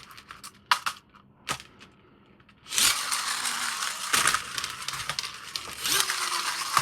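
Plastic toy packaging being handled during unboxing: a few sharp clicks, a short pause, then continuous crinkling and rustling from about a third of the way in.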